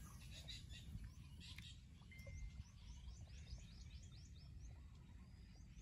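Near silence outdoors: a bird's faint chirping, a quick run of short falling chirps at about three to four a second, over a low wind rumble.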